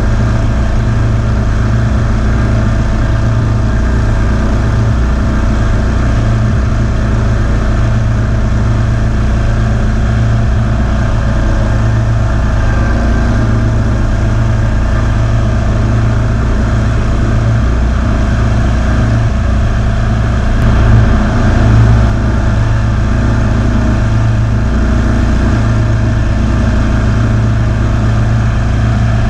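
Kawasaki V-twin engine of a Ferris zero-turn mower running steadily while mowing, briefly louder about twenty-one seconds in.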